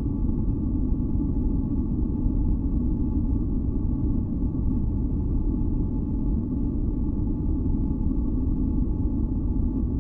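Steady deep masking noise of the kind used for sleep and tinnitus relief, with faint steady tones humming above it.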